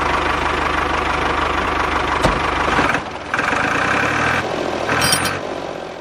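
Small engine of a homemade mini tractor running steadily, with a single knock a little past two seconds in. The sound shifts about halfway through and fades away near the end.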